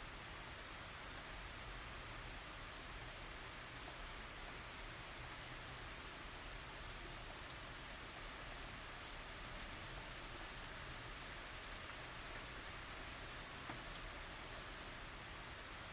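Steady light rain falling, an even hiss with fine patters of drops and no thunder.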